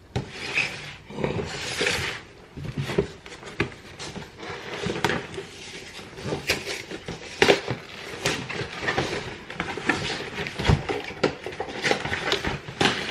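Gingerbread and Oreo train kits being handled: a steady run of clicks, knocks and rustling, with a sharper knock about seven and a half seconds in.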